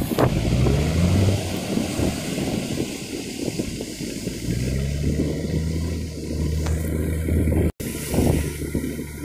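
Boat engine running under a haze of wind and sea noise, its pitch rising briefly about a second in and then holding steady; the sound cuts out for an instant near the end.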